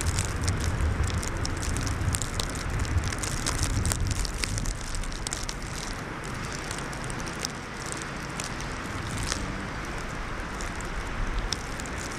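Winter storm wind blowing across the microphone, a steady rumbling noise that is heaviest in the first few seconds, with a light crackle of small ticks running through it.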